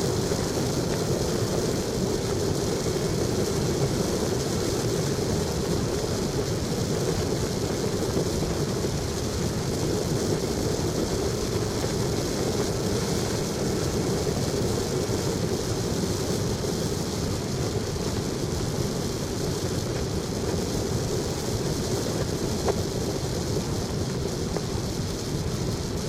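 Steady, unbroken rumble and rush of a vehicle travelling along a road.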